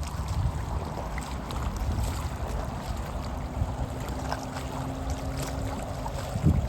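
River water flowing over shallows, with wind buffeting the microphone in low rumbles and a few louder gusts near the end.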